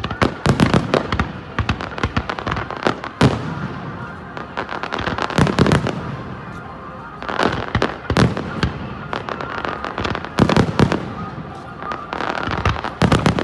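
Aerial fireworks display: volleys of bangs and rapid crackling that come in waves several times.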